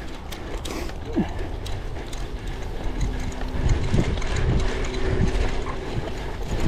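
Cyclocross bike's drivetrain and freehub clicking and rattling over rough ground, with repeated low thumps from the bumps.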